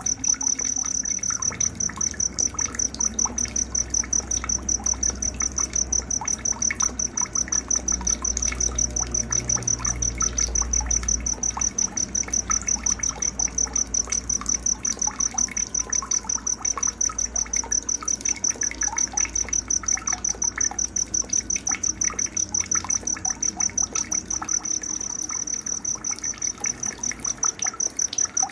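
Night nature ambience: an insect chirps in a steady, high, even pulse about three times a second, with scattered faint short chirps beneath it.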